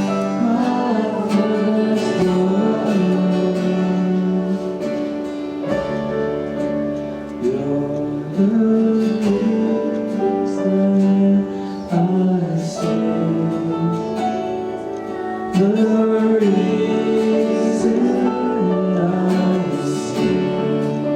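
Worship song: a voice singing a melody over acoustic guitar accompaniment.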